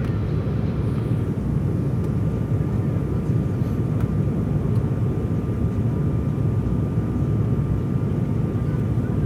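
Steady engine and airflow drone heard inside the cabin of an Embraer 195 jet airliner in flight, with a faint steady tone above it.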